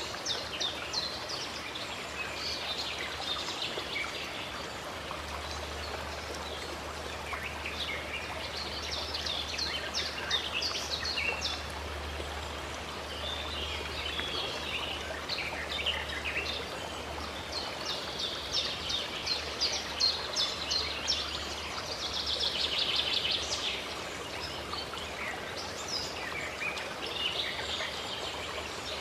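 Running stream water with birds singing over it: a steady rush of water under repeated quick chirps and trills, busiest about two thirds of the way through.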